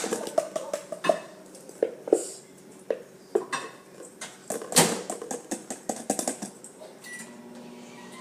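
Irregular clinks, taps and knocks of kitchenware: a utensil and containers knocking against a bowl while glue and water are mixed for slime, with the loudest knock just before five seconds in. The knocking stops shortly before the end, leaving a faint steady hum.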